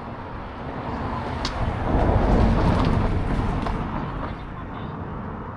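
A motor vehicle passing close by on the road: its noise swells to a peak about two to three seconds in, then fades away.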